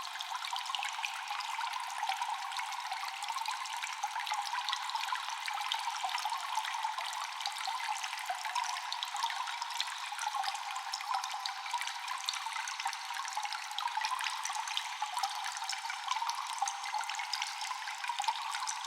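Constant dripping and trickling water in a cave: a dense, steady wash of small drops and splashes with no pause.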